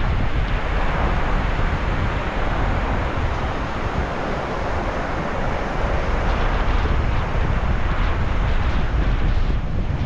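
Sea waves washing onto the shore in a continuous surf, swelling and easing, with wind buffeting the microphone as a steady low rumble.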